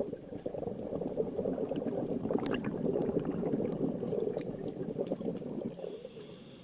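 Scuba diver exhaling through a regulator underwater: a rush of bubbling that lasts about six seconds and dies away near the end, with small clicks and pops over it.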